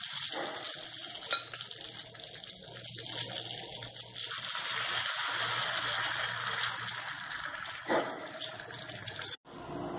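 Potato pancake batter shallow-frying in hot oil in a nonstick pan: a steady sizzle with fine crackling. A metal spoon knocks lightly in the pan about a second in and again near the end.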